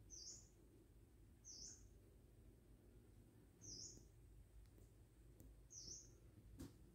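Near silence, with a bird's faint high chirp repeated four times, about every two seconds, and a faint knock near the end.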